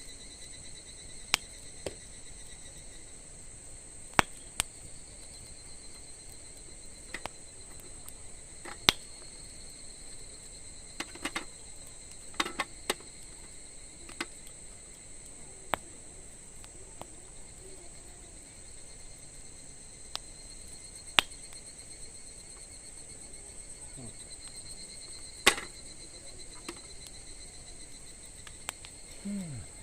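Wood campfire burning with irregular sharp crackles and pops, the loudest near the end, over a steady high trill of crickets.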